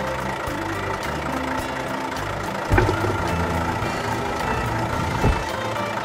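Idling tractor-engine sound laid over the action of a toy tractor, running steadily, with two dull thumps, one about three seconds in and one about five seconds in.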